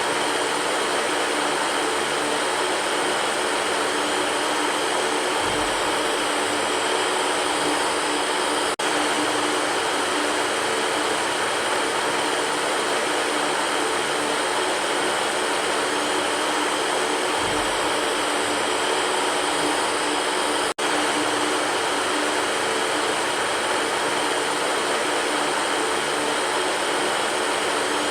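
Electric fan running steadily: an even rushing of air with a faint motor hum under it, briefly dropping out for an instant twice.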